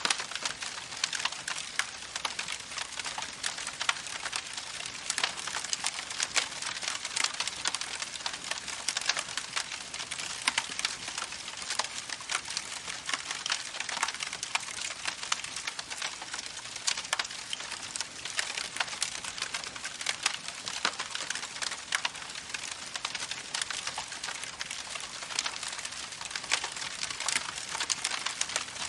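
Campfire burning with dense, continuous crackling: many small sharp pops over a steady hiss.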